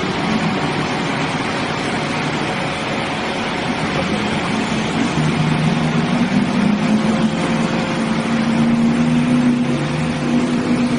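A heavy truck's engine running steadily under a broad rushing noise, its pitch rising a little about halfway through.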